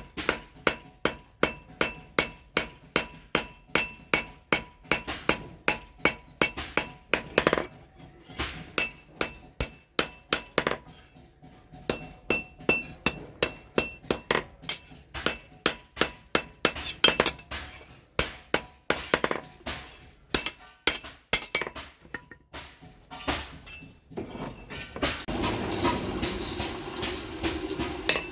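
Blacksmith's hammer striking steel on an anvil, forging a bellhook machete blade, at a steady rhythm of about two to three blows a second, with a metallic ring between blows and two brief pauses. Near the end the blows give way to a steady rushing noise.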